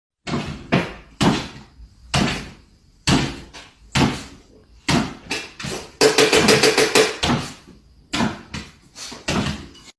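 Repeated loud knocks, one strike every second or so, with a quick run of about eight strikes a second a little past the middle.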